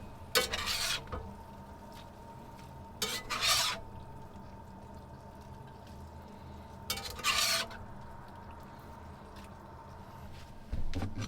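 Metal utensil scraping and stirring food in a pan, in three short strokes a few seconds apart, over a steady low hum.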